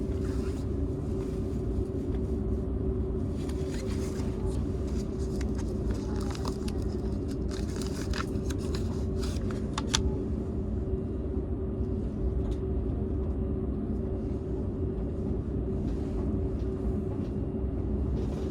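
Cabin running noise of a Seibu 001 series Laview limited express train, heard inside its unpowered Tc driving trailer car: a steady low rumble of wheels on the rails. From about 3 to 10 seconds in, a run of clicks and rattling rides over it.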